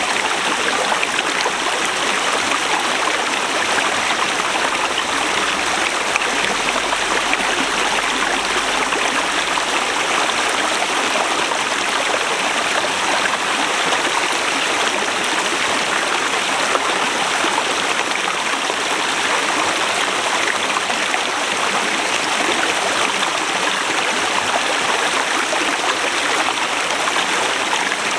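Forest river rushing over rocks: a steady, even rush of flowing water.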